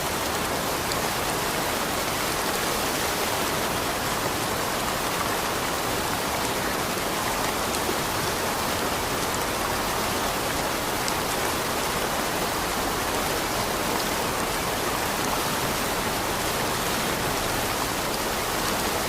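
Steady rain: a dense, even hiss of falling rain with a few faint individual drop ticks.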